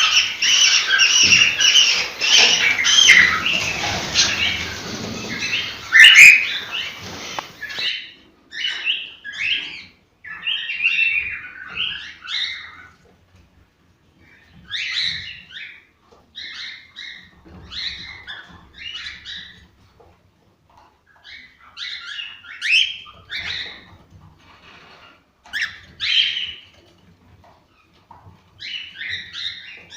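Cockatiels chirping and whistling. A dense, busy chorus of chirps gives way about eight seconds in, abruptly, to short separate bursts of chirping every second or two.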